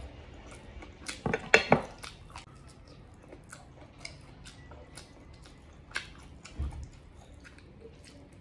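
Close-up wet chewing and mouth smacks of a person eating braised pig ear, tongue and tail, with a cluster of loud sharp clicks a little over a second in and a single click and low thump around six seconds in.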